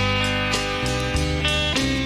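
Live country band playing an instrumental break with no vocals: pedal steel guitar with electric guitars over bass and drums, held notes and one note sliding down near the end.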